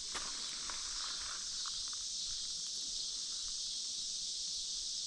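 Steady high-pitched chorus of insects, with a few light rustling clicks in the first couple of seconds.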